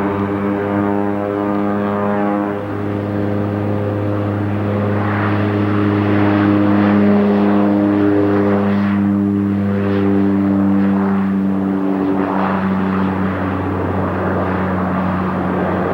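Airliner engines at takeoff power, a loud steady drone with strong even tones and a rushing roar that swells through the middle.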